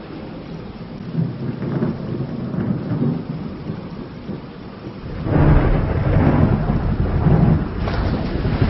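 Thunder rolling over steady rain: a low rumble about a second in, then a louder rolling peal starting about five seconds in and lasting around three seconds.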